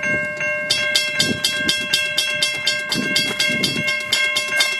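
Level crossing bells ringing steadily with rapid, evenly spaced strikes over a sustained ringing tone. A second, brighter series of strikes joins about a second in.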